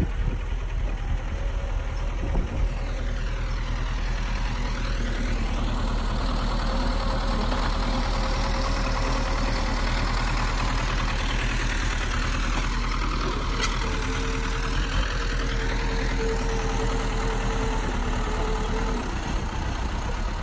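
Bulldozer's heavy diesel engine running steadily, with a constant low drone.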